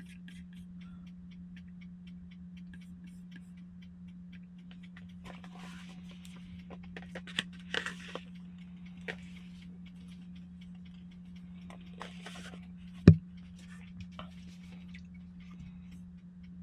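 Steady low hum with a faint, regular ticking of about four ticks a second, broken by a few short rustling and scraping handling sounds and one sharp click about thirteen seconds in.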